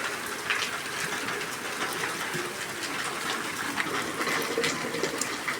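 Rain falling steadily, with scattered drops splashing sharply through it.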